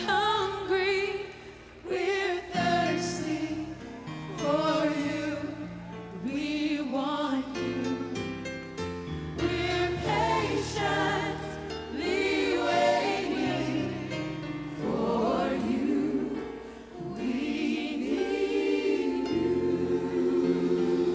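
Gospel choir singing sustained, wordless or drawn-out phrases of a worship song, with steady low instrumental backing underneath.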